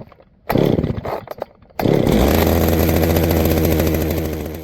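Two-stroke chainsaw engine revving: a short burst, then held at steady high speed for a few seconds before cutting off abruptly near the end.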